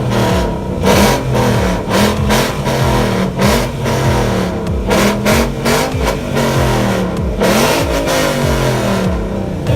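Loud-exhaust Ford Mustang V8s revving one after another in a rev-off, engine pitch blipping up and falling back again and again with the revs overlapping.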